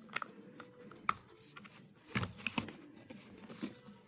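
A handful of short, sharp clicks and light taps of small hard objects being handled, irregularly spaced, with a quick cluster just after two seconds in.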